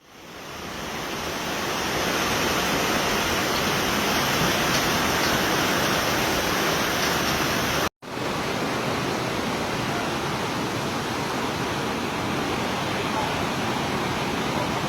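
Steady rush of fast-flowing floodwater that fades in over the first two seconds. It breaks off for an instant about eight seconds in, at a cut between clips, then carries on.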